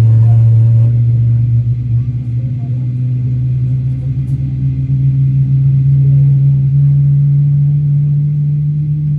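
GE90 turbofan jet engine running with a loud, steady low drone whose pitch rises slowly as the engine spools up.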